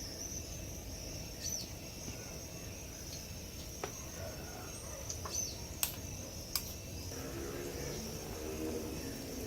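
Chickens clucking and birds chirping over a steady high insect trill, with a few sharp clicks; the clucking is clearest in the last couple of seconds.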